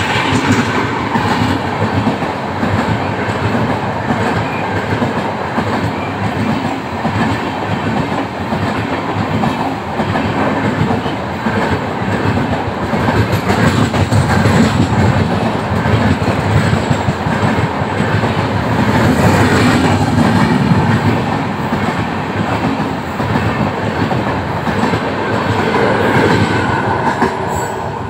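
Indian Railways passenger train running past, its coaches' wheels clattering steadily over the rail joints.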